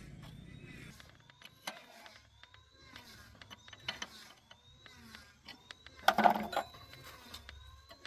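Mechanical clicks and clinks of metal parts being handled or worked, with faint repeating squeaks and a louder clatter about six seconds in; a low hum stops about a second in.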